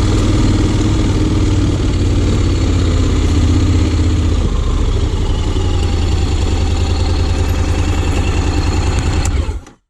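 Honda X-ADV 750's parallel-twin engine running steadily on a low note, its tone shifting slightly about four seconds in; the sound cuts off suddenly near the end.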